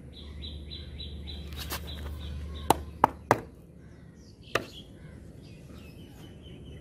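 A small bird chirping in a quick repeated series of short high notes, about four a second, which stops about three seconds in, over a low steady rumble. A few sharp clicks come between about two and five seconds in.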